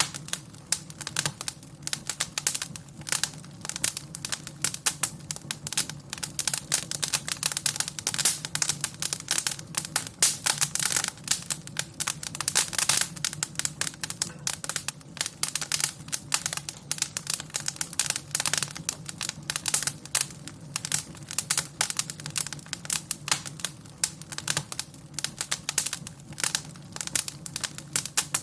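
Wood fire in a fireplace crackling, with a dense, continuous run of sharp pops and snaps over a low steady hum.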